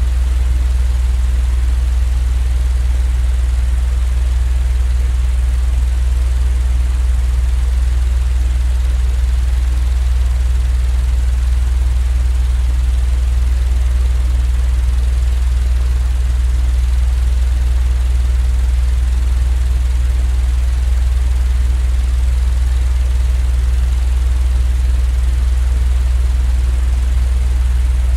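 Steady, unchanging low machine hum with a faint hiss above it, a continuous sleep-aid noise track of the fan or train kind.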